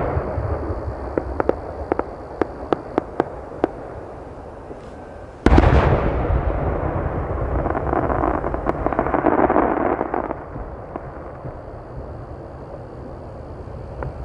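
Large 10-go (shakudama) firework shells bursting overhead: a loud boom at the start followed by a string of sharp single cracks, then a second, louder boom about five seconds in with a dense crackling tail that dies away after several seconds.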